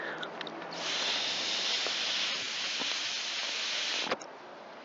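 Air blown by mouth through a Stihl BG86 fuel tank vent, a steady rushing hiss of about three seconds that then cuts off. The free flow shows the vent is passing air again after its clogged filter media was cleaned and slit.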